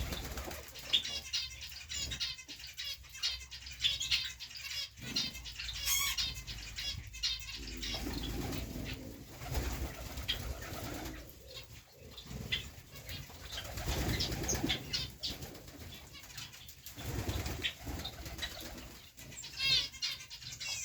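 Pigeons flapping their wings and cooing, mixed with quick, high chirping calls from small birds.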